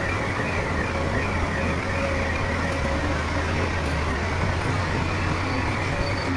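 Heavy diesel earthmoving machinery running steadily, a low, even engine drone with no pauses or changes.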